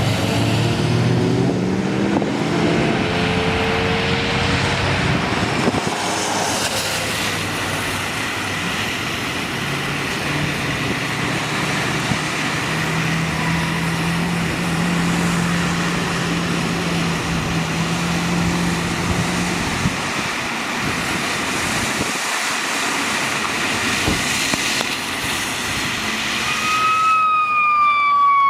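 Steady hiss of rain and vehicles on wet streets. A vehicle's engine drone rises and passes in the first few seconds. An emergency vehicle siren starts near the end, its wail falling in pitch.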